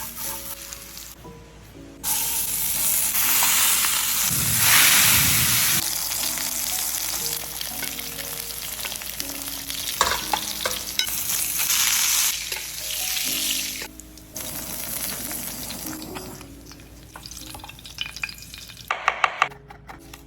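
Food sizzling as it fries in a hot pan, in several stretches that start and stop abruptly, with a few sharp clinks near the end.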